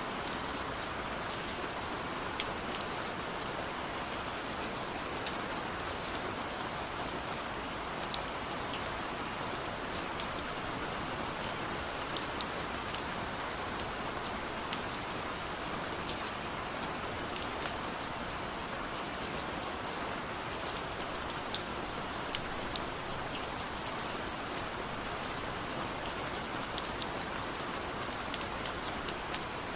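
Steady rain: an even hiss with many single drops ticking sharply as they land.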